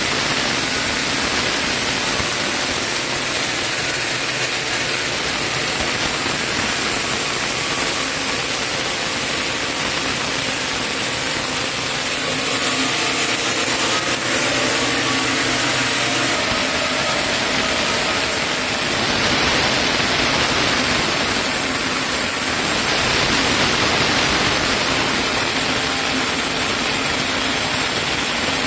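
Sawmill saw cutting through a chinaberry (sendan) log: a steady, loud hissing cut with two slightly louder stretches in the second half.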